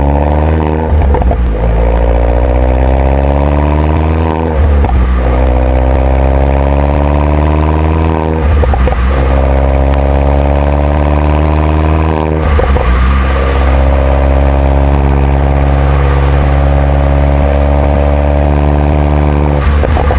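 Mini John Cooper Works 1.6-litre turbocharged four-cylinder with its stock exhaust, pulling hard through the gears: the engine note rises steadily, drops briefly at an upshift about every four seconds (four shifts), then climbs in one long pull in the last gear.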